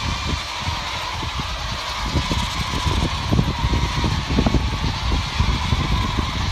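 Wind buffeting the microphone in irregular low rumbles, over a steady hiss.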